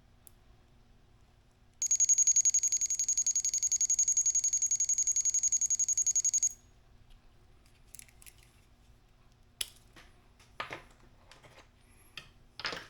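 Thermal detonator prop sound board beeping: a fast, high-pitched pulsing beep that lasts about five seconds and cuts off suddenly. A few light clicks and knocks follow near the end.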